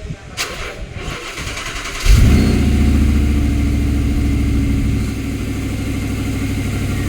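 Audi R8 engine starting about two seconds in: it catches at once and runs at a fast idle that settles a little lower about five seconds in. It starts after its ECU was repaired to cure a no-crank, no-start fault.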